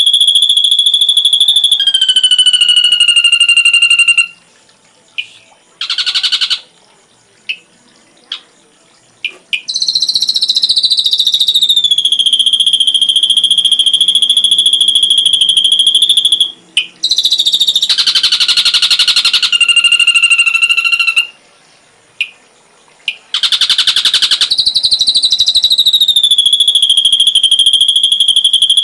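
Ashy drongo song: long, loud, steady high whistles held for several seconds, each dipping slightly in pitch. These are broken by short pauses and by rapid buzzy trills, about six seconds in, around eighteen to twenty seconds in, and again near twenty-four seconds.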